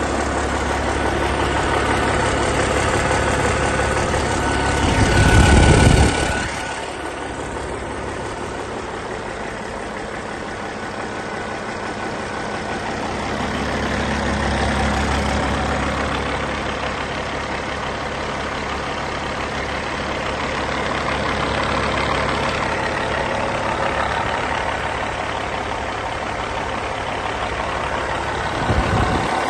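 Caterpillar 3406E 14.6-litre inline-six truck diesel engine running steadily at idle during a test run. It has a brief louder low rumble about five seconds in and again near the end.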